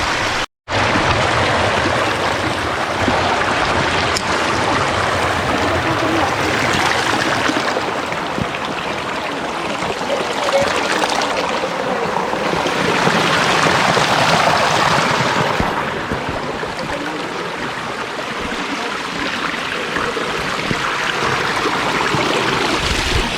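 Forest stream rushing steadily over rocks, a loud, even wash of water noise. It cuts out briefly about half a second in.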